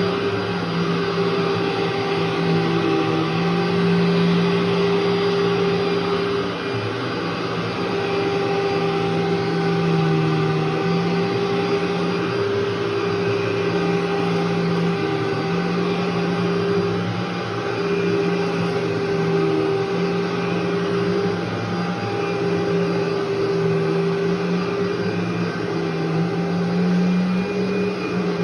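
Vacuum cleaner running over a carpet that has gone unvacuumed for three months. It is a steady motor hum that shifts slightly in pitch now and then.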